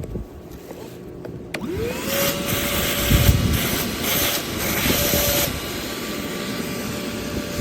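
LIGO 20V cordless shop vacuum switched on about a second and a half in, its motor spinning up to a steady high whine over rushing air. The air hiss surges and drops for a few seconds, then it runs steadily.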